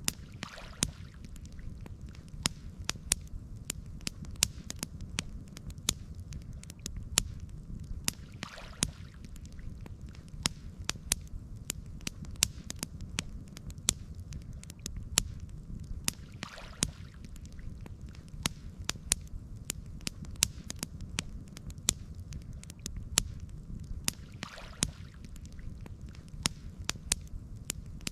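Campfire crackling: irregular sharp pops and snaps over a steady low rumble, with a soft brief rush of noise about every eight seconds.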